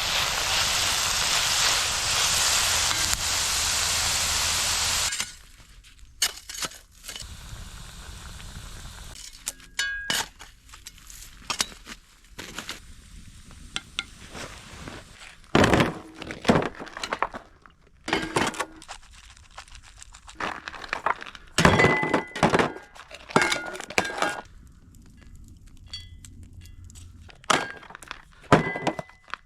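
A loud, steady hiss for about the first five seconds. After it come scattered knocks and clinks of cookware and utensils being handled, some leaving short metallic ringing tones.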